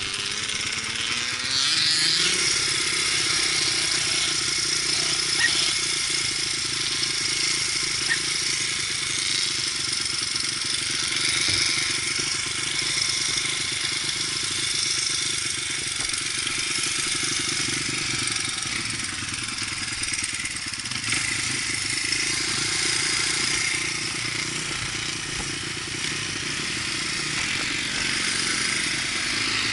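Dirt bike engine running: it revs up over the first couple of seconds, then holds at a fairly steady speed.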